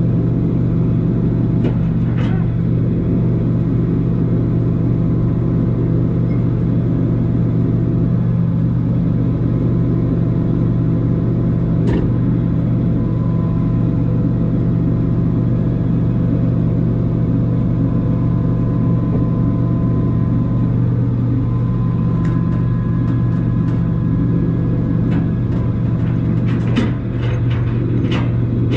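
A vehicle engine running at a constant speed: a steady low drone that holds one pitch, with a few light clicks near the end.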